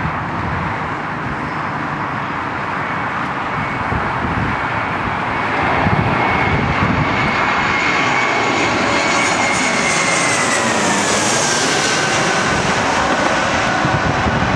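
Jet airliner passing by: steady engine noise with a high whine that gets louder about six seconds in, then drops in pitch near the end as the aircraft goes past.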